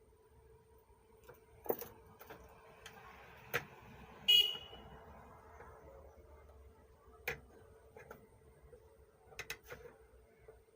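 Sharp clicks and knocks of handling on a workbench, about six in all, the loudest about four seconds in with a brief ringing tone, over a faint steady hum.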